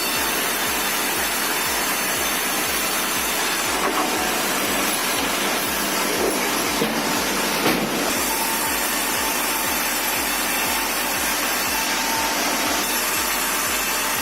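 Commercial sawmill machinery running: a steady, loud rush of noise with a regular low thumping about three times a second.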